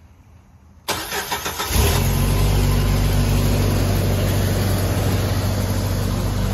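Jeep Wrangler YJ's 2.5-litre four-cylinder engine cranked by a newly fitted starter: a brief burst of cranking about a second in, then the engine catches and runs steadily. The quick start shows the replacement starter is working.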